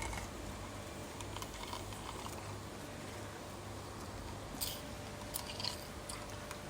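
Quiet handling noise as a lemon is squeezed in a hand juicer, with a few soft clicks and squishes about four and a half to six seconds in.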